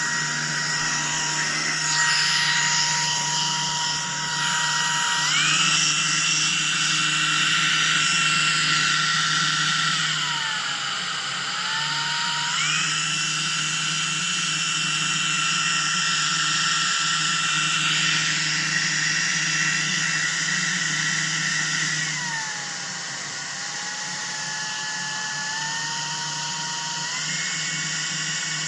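Shark IZ300UK cordless stick vacuum running with a high motor whine, its pitch stepping up and then back down several times. The whine is one the owner puts down to a slightly loose filter inside.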